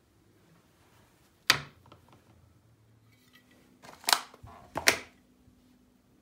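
Kitchenware knocking three times with short, sharp clatters, the last two close together, over a faint steady hum.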